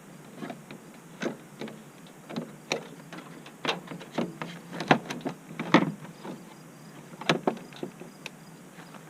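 Plastic battery surround being handled and fitted back around the battery: a run of irregular clicks and knocks, the loudest about five to six seconds in and again just after seven seconds.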